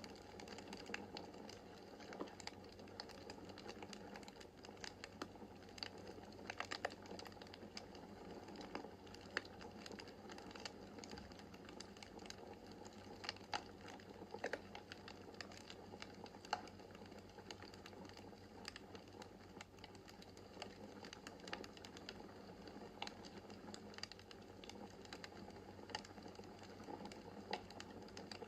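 Wood fire burning in a fireplace: the logs crackle and pop at irregular moments over a soft, steady hiss of the flames.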